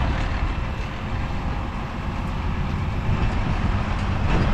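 Truck engine running steadily, heard from inside the cab as a low, even rumble.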